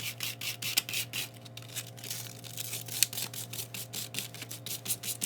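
Sandpaper being rubbed by hand over a shiny dog door flap, quick back-and-forth scratchy strokes, about four a second, roughing up the surface so epoxy will grip.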